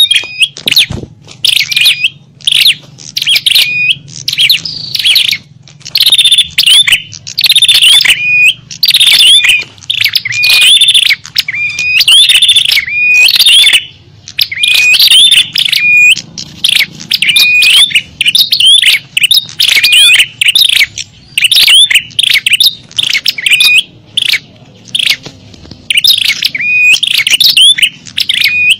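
Small songbirds' sharp, high chirping calls, repeated in loud phrases about a second long with short gaps between them: a bird-lure (pikat) recording of small-bird calls meant to draw small birds in.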